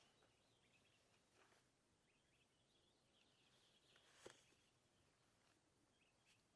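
Near silence with faint high bird chirps and one soft click about four seconds in.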